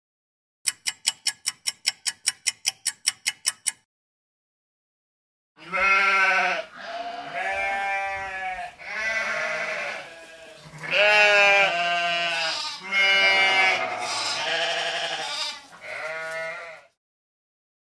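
A telephone ringing, a rapid ringing trill of about five strikes a second for about three seconds. After a short gap come sheep bleating, a series of long wavering bleats for about eleven seconds, louder than the ring.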